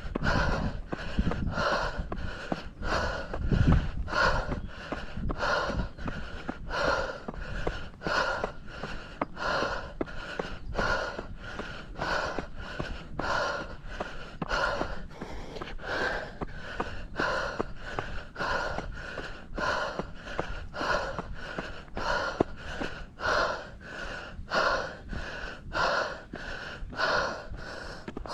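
A trail runner's heavy breathing, quick even breaths in and out at a steady rhythm, from hard effort on a steep uphill run.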